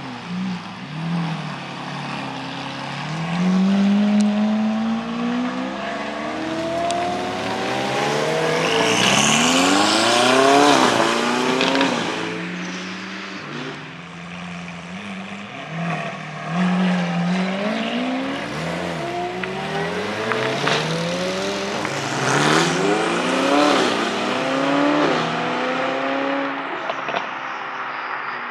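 Performance car engines accelerating hard past the camera, revving up through the gears, with the pitch climbing and dropping at each shift. There are two main pulls, the first the loudest.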